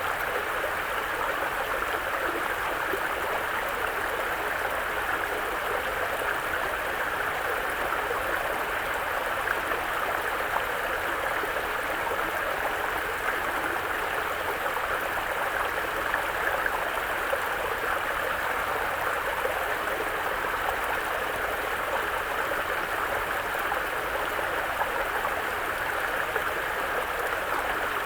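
A mountain brook running over rocks, with a steady babbling and gurgling of flowing water.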